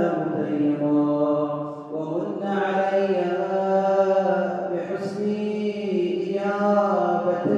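A man's voice chanting an Arabic supplication, drawing out long melodic notes that bend and glide between pitches.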